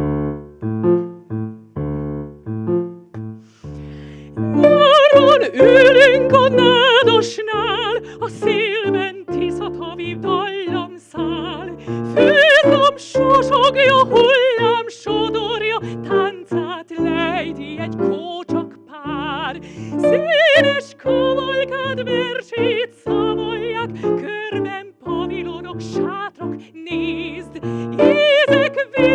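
A female opera singer singing with a wide vibrato over piano accompaniment. The piano plays alone for about the first four seconds, then the voice comes in and carries the melody.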